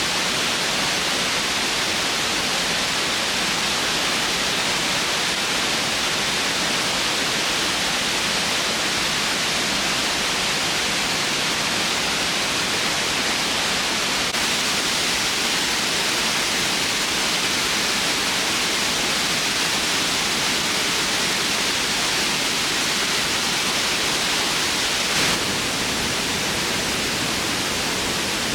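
Waterfall: falling water rushing in a steady, even hiss, with one brief tick near the end.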